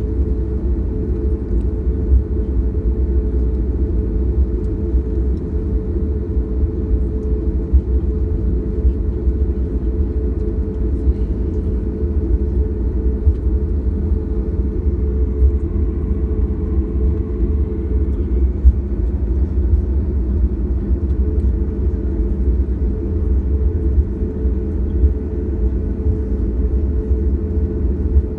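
Steady low rumble of a Boeing 737-800 twin-jet airliner in motion, a constant drone that holds the same level throughout.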